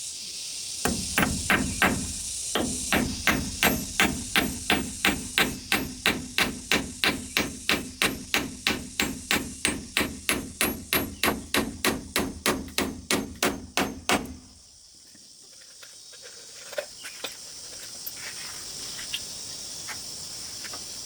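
Hammering: a fast, even run of hammer blows, about three or four a second, that stops about fourteen seconds in. Insects keep up a steady high buzz underneath.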